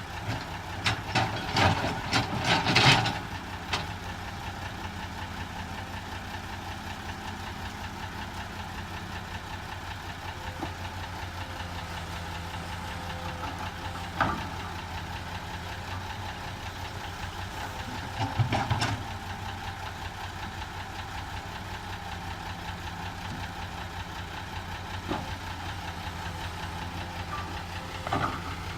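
Heavy diesel engine running steadily, with a cluster of clattering knocks in the first few seconds and shorter bursts of knocks about 14 and 18 seconds in.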